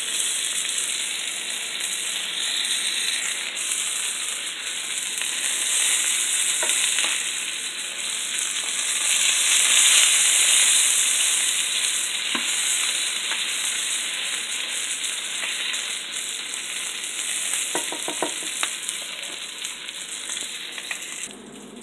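Hamburger patties sizzling in hot fat in a frying pan: a steady hiss that swells about halfway through and drops off suddenly near the end.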